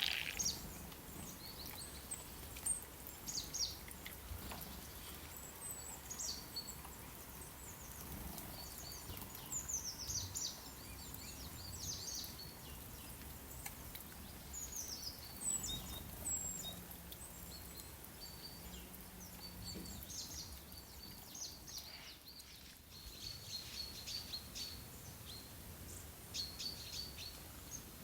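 Small songbirds chirping and twittering: short high notes and brief trills scattered throughout, over a faint steady low background noise.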